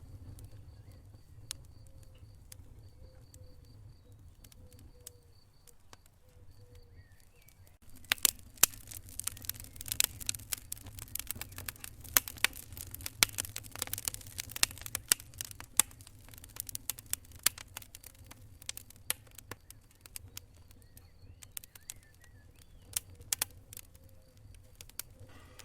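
Wood fire in a fireplace crackling and popping over a low rumble of the flames. The pops are sparse at first, then come thick and loud for several seconds from about a third of the way in before thinning out again.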